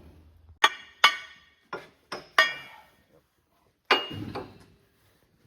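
Loose steel parts of a crawler steering clutch pack striking one another: about six sharp metallic clanks, each ringing briefly, the last about four seconds in.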